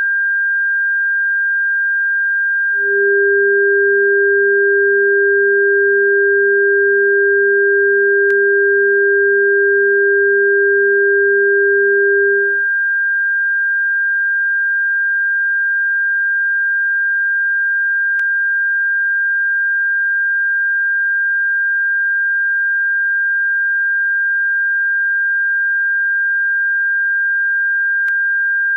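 Electronic bird-repellent tone: a steady, high-pitched pure tone, joined by a lower steady tone from about three seconds in until about twelve seconds in. A faint click comes about every ten seconds.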